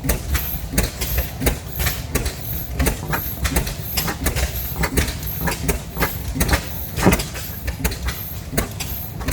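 Several slow-running single-cylinder oil field engines sound together: sharp exhaust pops at overlapping, uneven intervals over a steady low rumble. A faint high squeak repeats about twice a second.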